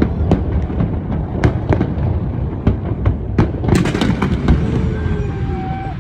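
Fireworks display: a rapid string of sharp bangs and crackles over a continuous low rumble of shell bursts, thinning out near the end.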